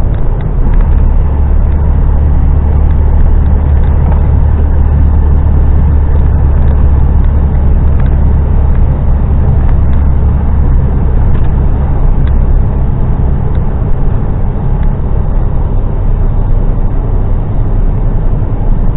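Heavy goods vehicle's diesel engine droning steadily under way, with road noise. The low drone eases off a little about twelve seconds in.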